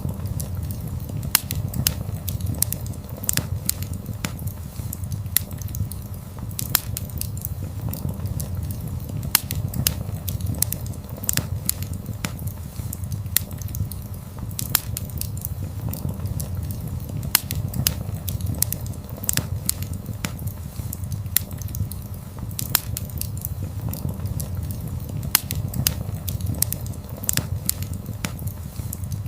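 Wood fire crackling: sharp, irregular pops and snaps over a steady low rumble of burning logs.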